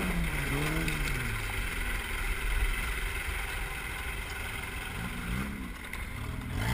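Vehicle engine revving up and down in quick blips, then running on under a steady rushing noise and low rumble. Two more short revs come near the end.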